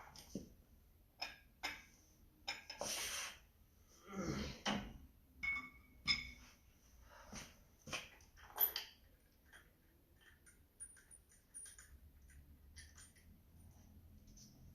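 Irregular metallic clinks, knocks and rustling, as of hand tools and parts being handled during work on a car; busiest in the first nine seconds, then sparser and fainter.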